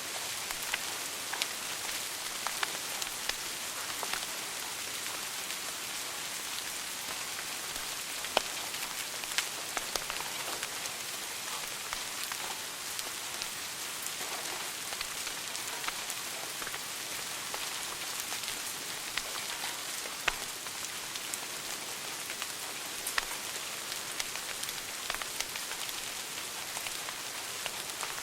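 Wood fire burning in a fireplace: a steady hiss with frequent sharp crackles and occasional louder pops.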